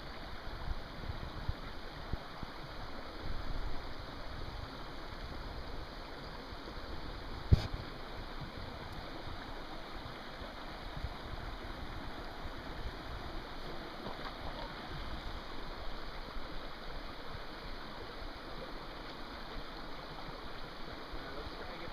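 Steady rushing of a nearby creek, with a few low thumps in the first few seconds and one sharp click about seven and a half seconds in.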